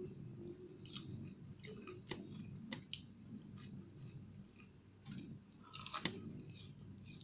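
Close-up chewing and biting of fried fish: wet chewing with scattered small crunches and mouth clicks, and a cluster of louder crunches about six seconds in as she bites into a piece.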